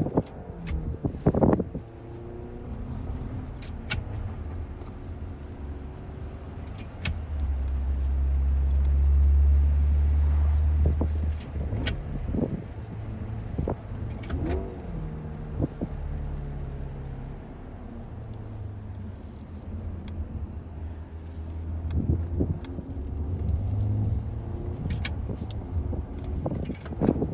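Car driving: a steady low drive note whose pitch rises and drops in steps several times, swelling loudest about a third of the way through, with scattered sharp clicks.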